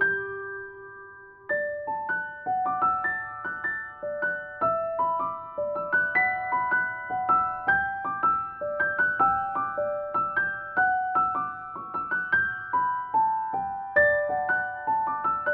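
Background music: a gentle, soft piano melody in a steady run of notes, after a held chord in the first second and a half.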